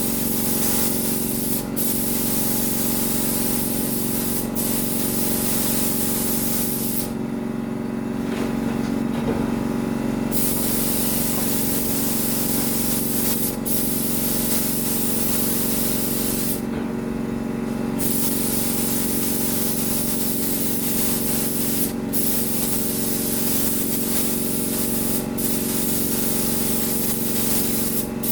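Paint spray gun hissing as a coat of paint is sprayed, its hiss cut by brief trigger releases and two longer pauses of a second or three, near the start and middle. A steady motor hum runs beneath throughout.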